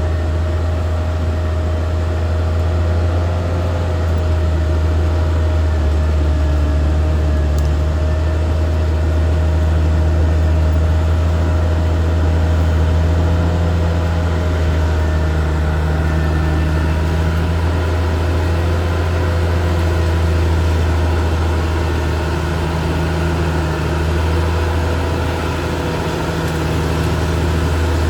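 Caterpillar D6R XL bulldozer's diesel engine running steadily with a deep, even rumble and a thin steady whine over it.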